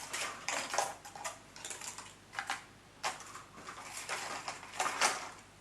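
Handmade flower stems being handled and sorted: a string of light, irregular rustles and clicks.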